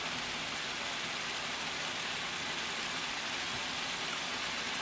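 Ground red chili paste sizzling steadily in hot oil in a wok.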